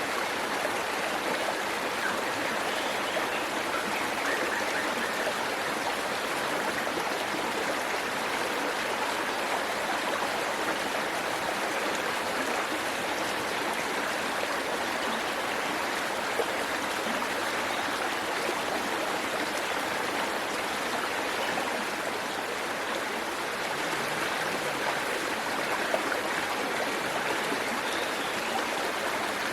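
Waterfall: water pouring and splashing over rocks in a steady, even rush.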